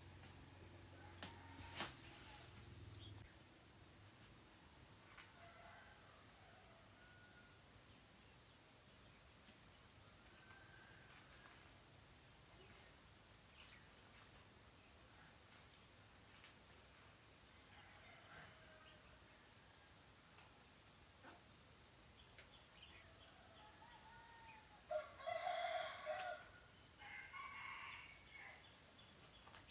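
Insects chirping in a steady high pulse, about four or five chirps a second, in trains of several seconds with short pauses. Scattered faint bird calls, with a louder bird call near the end.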